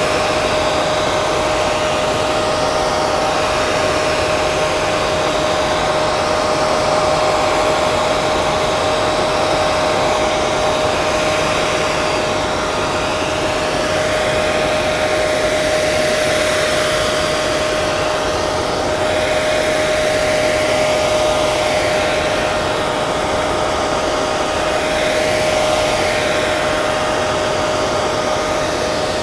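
Hair dryer running steadily: a continuous rush of air with a steady motor whine held at one pitch, the higher hiss swelling and fading slightly every few seconds.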